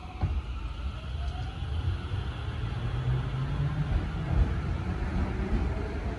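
Tokyo Metro 05 series electric train pulling out of a station: a low rumble of the wheels and running gear with a faint rising whine from the traction motors as it picks up speed.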